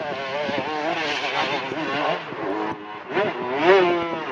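Dirt bike engine revving hard under load on a steep hill climb, its pitch wavering up and down as the throttle is worked. About three seconds in it rises to a high, loud rev.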